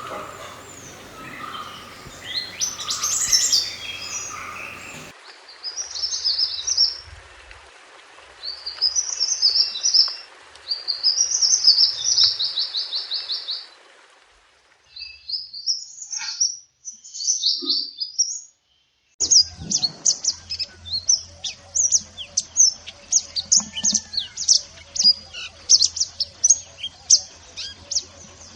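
A mantenan gunung bird singing: bursts of rapid, high chirping trills, a short phrase every second or two, then a dense run of quick chirps in the last third. The song is spliced from several recordings, changing abruptly a few times, with a faint low hum under parts of it.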